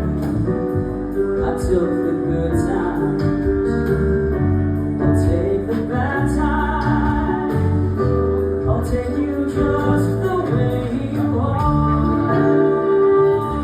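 Band music with a singer, sustained sung notes over a steady drum beat.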